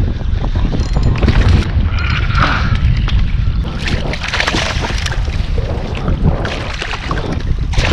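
Wind buffeting the microphone on a fishing kayak, with scattered short knocks and rustles from handling gear.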